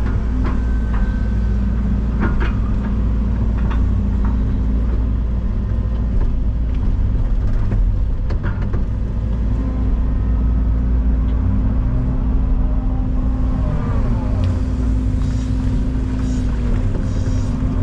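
Excavator's diesel engine running steadily under work, with several sharp metallic knocks in the first half and a wavering whine about fourteen seconds in.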